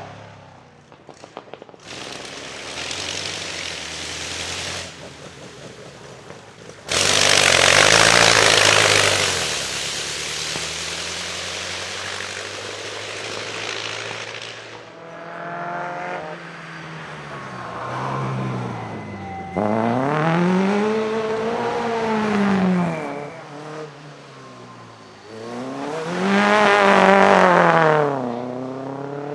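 Vintage racing car engines at full throttle on a hillclimb, with several cars cut one after another. Each engine's pitch climbs and drops with gear changes. The loudest stretch, about seven to ten seconds in, is a harsh, noisy blare as a car passes close.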